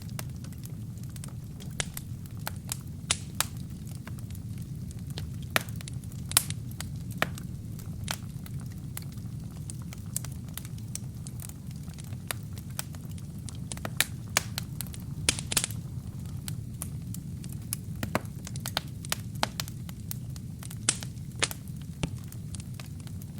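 Wood fire burning in a fireplace: a steady low rumble of the flames with irregular sharp pops and crackles from the burning wood and kindling.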